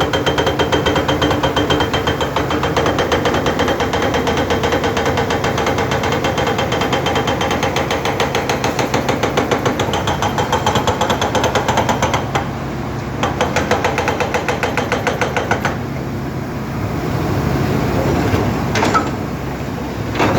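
Excavator working: its diesel engine runs under load with a rapid, steady pulsing clatter that stops about twelve seconds in, returns for about three seconds, then gives way to the engine running more steadily, with a single knock near the end.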